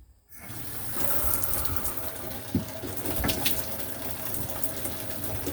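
Delta shower turned on: water begins about half a second in and then runs steadily, spraying into the shower stall, with a couple of small clicks. The water is being run to test the temperature after the hot-limit setting on the valve was adjusted.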